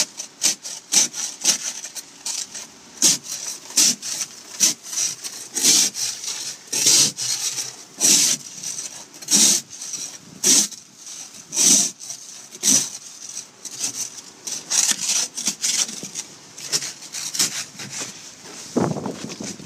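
Hard-packed snow or ice being scraped by hand in short, repeated strokes, about one to two a second. Near the end comes one heavier, lower scrape.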